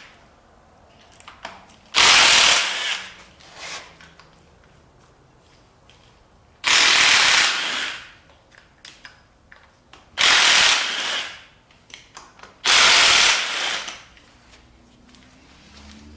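A power tool runs in four short bursts of about a second each, undoing bolts while an engine is being torn down.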